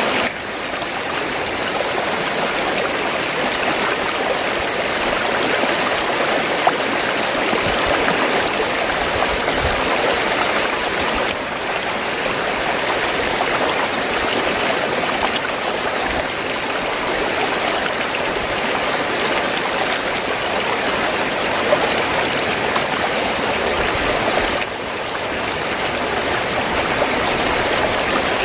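Fast-flowing water gurgling, a steady, unbroken flow whose level dips briefly twice, just after the start and about 25 seconds in.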